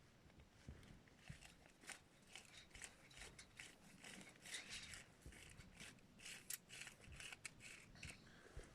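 Faint, quick run of short crisp scrapes or crunches, thickest from about two seconds in until near the end.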